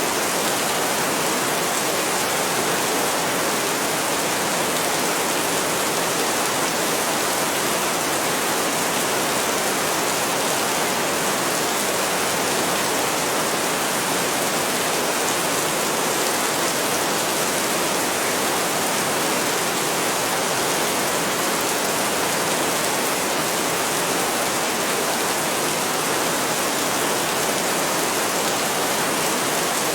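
Heavy rain falling steadily: a dense, even hiss that does not change, with no thunder claps.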